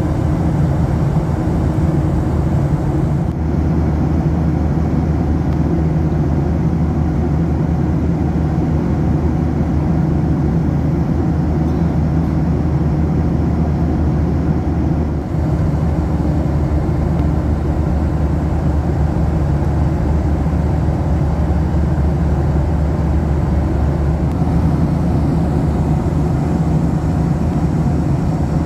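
Steady engine and airflow noise heard inside the cabin of a Boeing 737-800, a constant low hum with a rushing haze over it.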